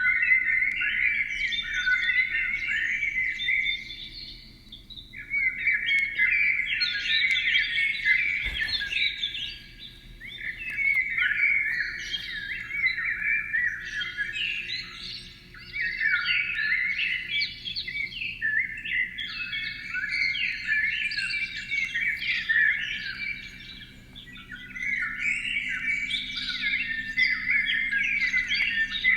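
A songbird singing long, rapid warbling phrases of about four seconds each, separated by pauses of about a second, over a faint steady low hum.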